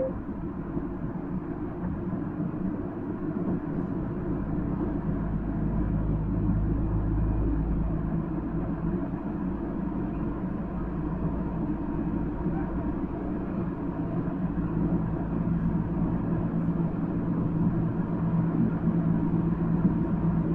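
Nankai 1000 series electric train heard from inside the passenger car while running between stations at a steady speed. A continuous rumble of wheels and running gear with a steady hum, and no clear changes.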